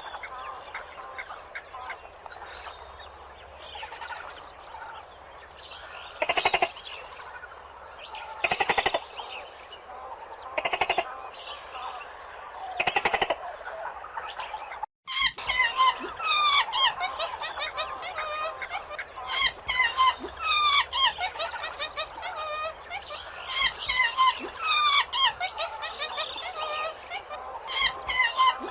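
Birds calling: four loud, harsh, rasping calls about two seconds apart over a background of chatter. After a sudden break, a dense chorus of many birds chirping follows.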